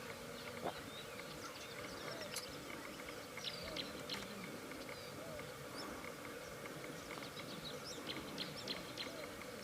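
Birds calling: many short, high chirps scattered throughout over a faint low call that repeats about once a second.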